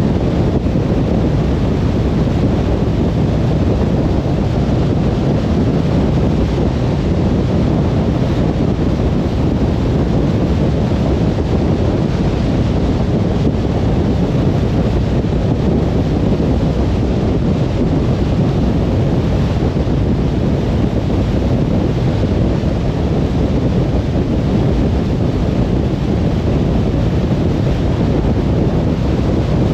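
Steady car road noise at highway speed: an even, low rumble of tyres and wind with no changes or separate events.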